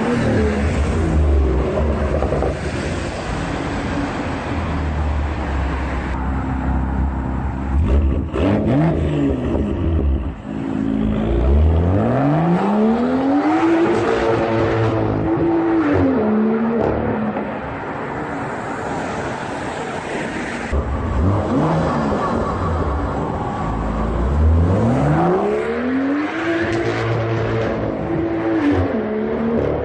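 BMW M2's turbocharged 3.0-litre inline-six idling through its exhaust, blipped once briefly, then revved up twice, each time climbing, holding for a couple of seconds and dropping back to idle.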